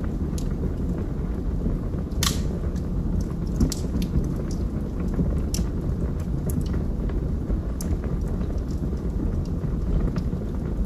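Wood fire burning in a fireplace: a steady low rumble of flames with scattered crackles and pops from the burning logs, the sharpest one a little over two seconds in.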